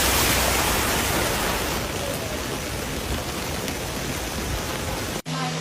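Steady rushing noise of heavy water during flash flooding, fading slightly and cut off abruptly about five seconds in.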